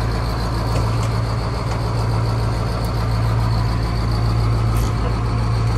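A 1990 cab-over fire engine's engine idling with a steady low hum.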